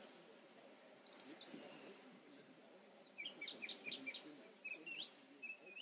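Faint birdsong: a few high chirps early on, then a quick run of short notes about three seconds in, and more chirps near the end, over a faint outdoor background.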